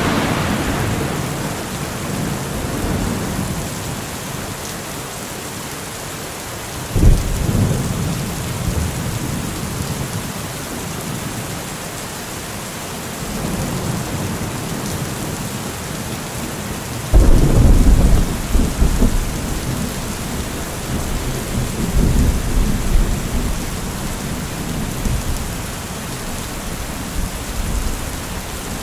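Heavy rain falling steadily, with thunder. A rumble fades over the first few seconds, a sharp clap comes about seven seconds in, and a louder clap about seventeen seconds in rolls on for several seconds.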